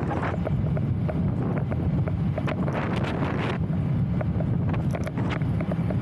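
Strong wind buffeting the camera microphone while moving: a steady low rumble with frequent short crackles.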